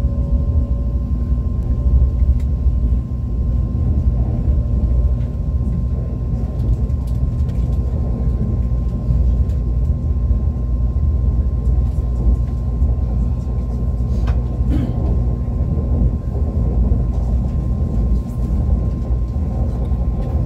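ITX-Maum electric multiple unit running along the line: a steady low rumble with a constant high tone over it, and two sharp clicks about fourteen seconds in.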